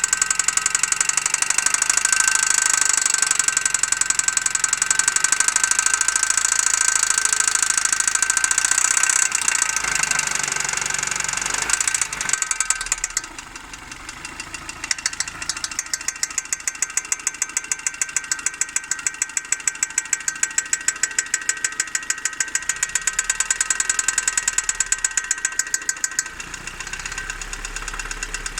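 Opel Zafira A OPC's 2.0 turbo four-cylinder engine running with a fast, even metallic ticking. The ticking is the unexplained engine noise the owner is asking for help with. It dips briefly about halfway through, then comes back.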